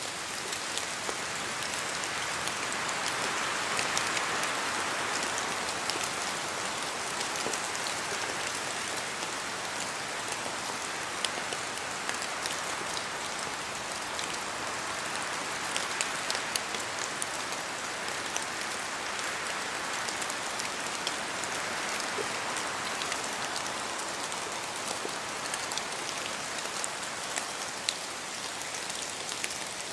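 Steady rain falling in a forest, with many separate drops landing sharply over an even hiss. The hiss swells a little about four seconds in and again around the middle.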